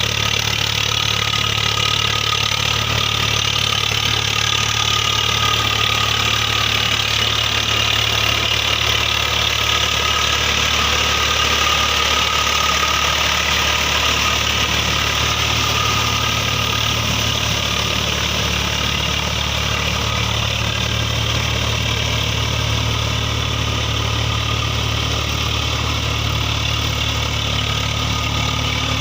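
Tractor's diesel engine running steadily, without revving up or down.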